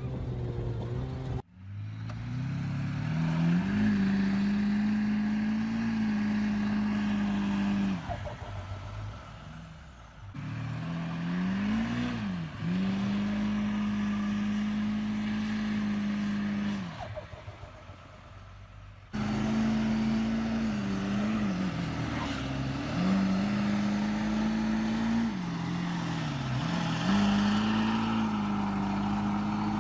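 Tractor diesel engines running hard under load in several short clips that cut in and out abruptly. Each clip's engine note climbs to a high steady pitch, and several times it dips briefly and recovers.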